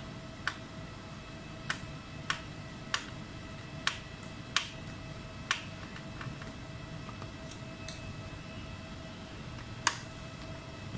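Sharp, irregular clicks and taps of small tools during laptop repair work, about eight in all, the loudest near the end, over a steady faint electrical hum.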